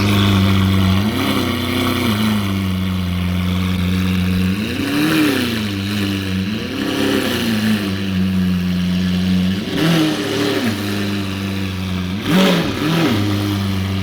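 Lamborghini V12 engine idling, with about six short throttle blips spread through, each rising and falling back to idle.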